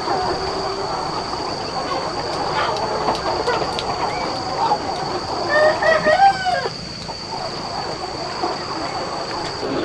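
A flock of chickens clucking and calling over one another, with one rooster crowing for about a second around the middle. A steady high-pitched whine runs underneath.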